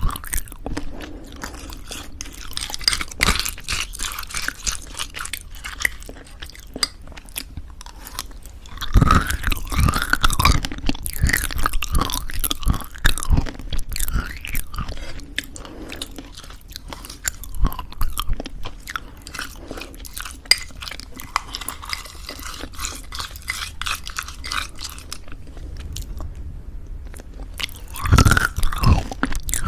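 Close-miked chewing of crunchy homemade granola in thick yogurt: dense crackling crunches with wet, sticky mouth sounds, a burst of louder crunching about nine seconds in and again near the end.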